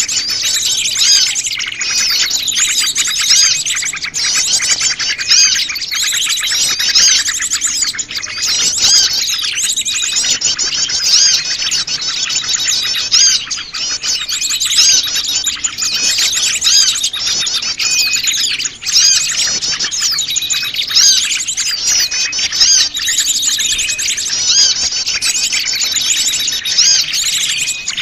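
A noisy mix of many small songbirds chirping and twittering at once, dense overlapping calls and trills with no break. It is a bird-lure recording made to draw small wild birds in.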